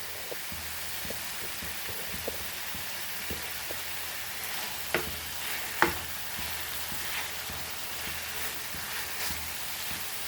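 Food sizzling in hot oil in a pan, a steady frying hiss with scattered light knocks from stirring. Two sharper utensil knocks come about five and six seconds in.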